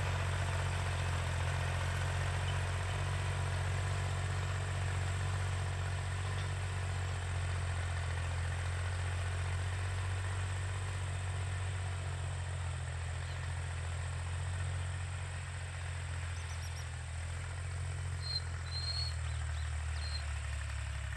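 Tractor engine running steadily at a constant speed, with a few short high chirps, likely birds, near the end.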